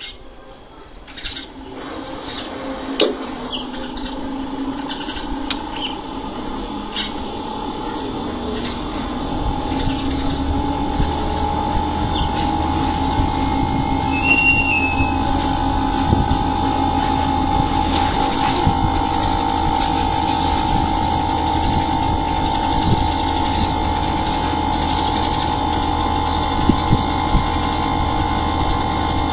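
Inverter air-conditioner unit starting up and running: a steady motor hum with a high whine, growing louder over the first ten seconds and then holding steady, with a few clicks in the first few seconds.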